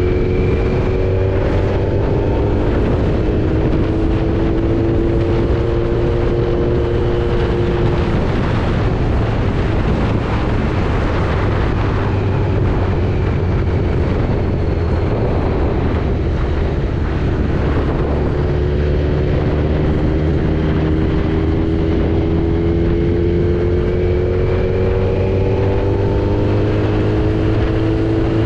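Kawasaki Z900's inline-four engine running at road speed, heard from the rider's seat along with wind and road noise. The engine note climbs slowly in pitch over the first several seconds and again in the last third, as the bike gains speed.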